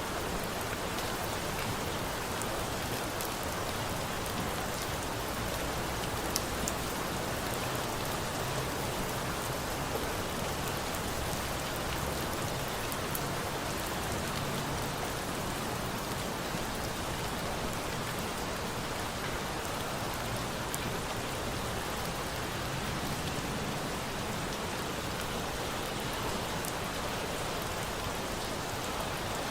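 Steady rain mixed with a crackling campfire: a constant hiss of rainfall with scattered sharp pops, the clearest one about six seconds in.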